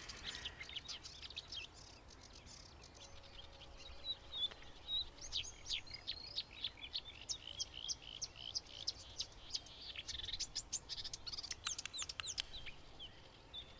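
Marsh warbler song: a fast, high-pitched run of short chirps, trills and whistled notes. It thins out briefly about two seconds in, then runs on densely again until near the end.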